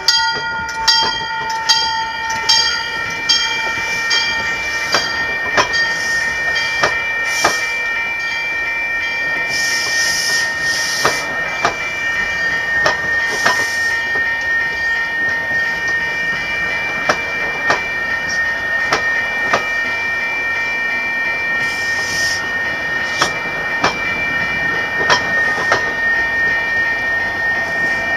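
Passenger coaches rolling slowly past close by, the wheels clicking and clacking over rail joints every half second to second, with a steady high ringing throughout. The last note of a train horn fades out in the first couple of seconds.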